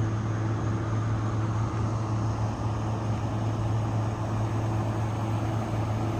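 Steady low electrical hum of air-conditioning units running, with fan noise over it and no change throughout.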